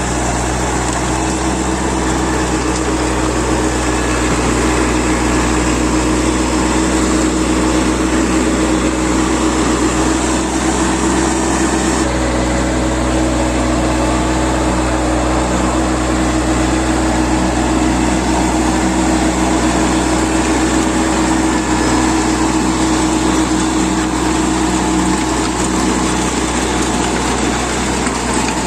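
VST 932 30 hp tractor's diesel engine running steadily at a constant speed.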